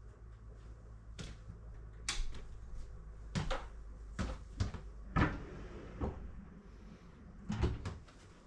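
A series of short, irregular knocks and clunks, roughly one a second, over a low steady hum.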